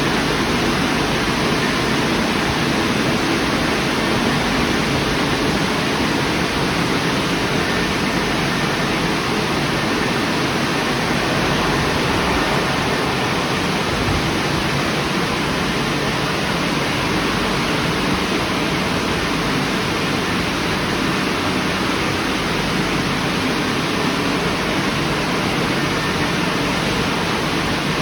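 Istobal Restyle rollover car wash running, with a steady rushing hiss of water jets spraying over the car.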